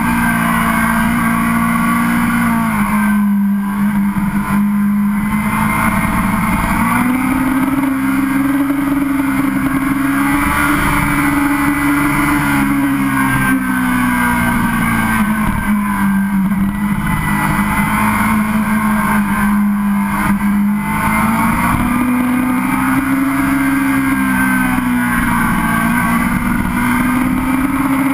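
Sportbike engine running at a steady cruise, heard from onboard, its pitch slowly dropping and climbing back twice, over a steady rush of noise.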